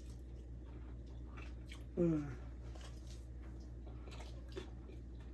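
Chewing a bite of curry chicken egg roll, with faint wet mouth clicks, and a short hummed 'mmm' falling in pitch about two seconds in. A steady low hum runs underneath.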